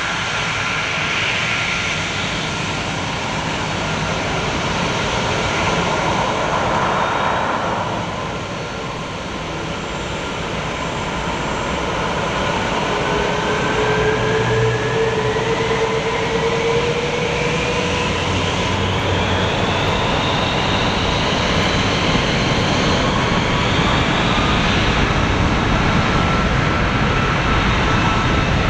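Boeing 747-400F freighter's jet engines running at high power during its takeoff: a steady loud rush with a whine that rises in pitch over about ten seconds midway.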